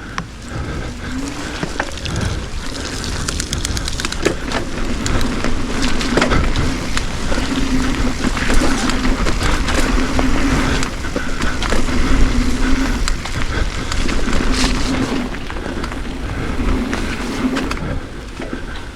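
Riding noise on a wet dirt trail: wind rumbling on the microphone, tyres rolling over the ground with scattered knocks from bumps and rocks, and a steady low hum that comes and goes.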